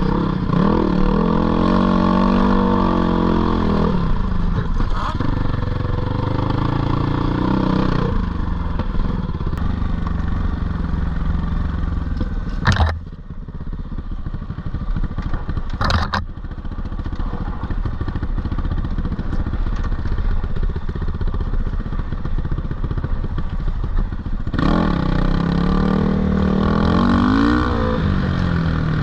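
GPX 450R single-cylinder four-stroke dirt bike engine pulling and revving over rough trail, its pitch rising and falling, then running lower and steadier through the middle. Two sharp knocks land near the middle, about three seconds apart.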